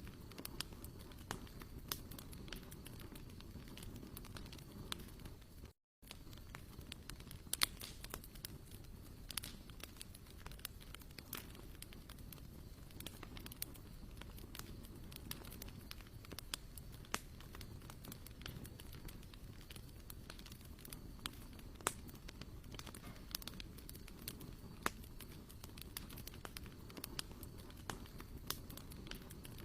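Wood campfire crackling: irregular sharp pops and snaps over a low steady rumble, with a brief break in the sound about six seconds in.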